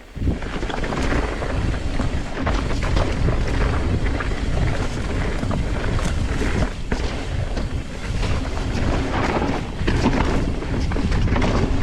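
Riding a full-suspension mountain bike down a rough dirt trail: wind buffeting the microphone with a steady low rumble, over tyres running on dirt and rock and frequent knocks and rattles from the bike.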